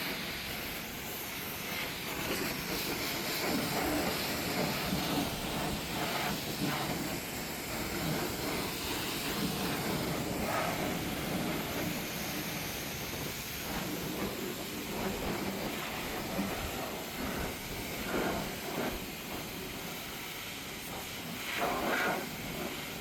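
Pressure washer spraying water, a hiss that swells and eases in irregular bursts, loudest near the end.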